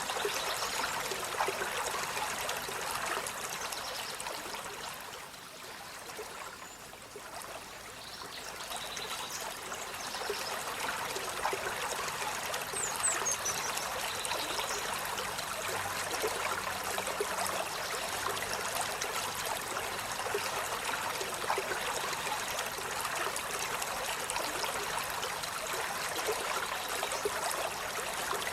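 Steady rush of running water, like a stream, easing off a little about five seconds in and building back by about ten seconds. A few faint, short, high chirps are heard around the middle.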